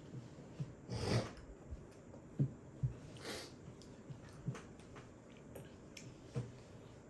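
Quiet mealtime sounds of a toddler being fed: scattered soft clicks and knocks, and two short breathy noises about one and three seconds in.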